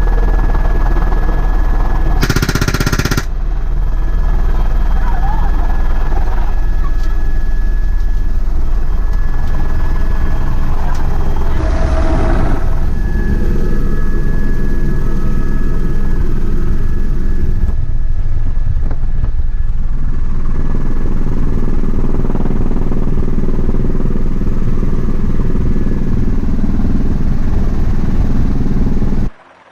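Helicopter in flight, its rotor and engine noise loud and steady, with a machine gun firing from the aircraft. There is a short, louder blast about two seconds in, and the noise cuts off abruptly near the end.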